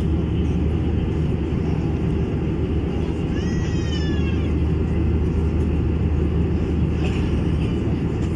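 Steady cabin noise of an Airbus A321-200 in flight, heard from inside the cabin: the constant drone of the engines and rushing air with a strong low hum. About three seconds in, a brief high-pitched cry slides downward in pitch over the drone.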